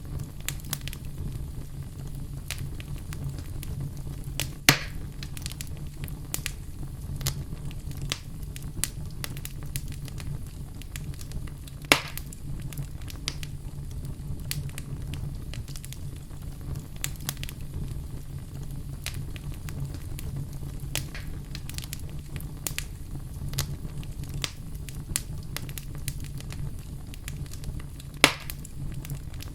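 Wood fire burning in a fireplace: a steady low rumble of flames with frequent small crackles, and three loud sharp pops, about five seconds in, about twelve seconds in, and near the end.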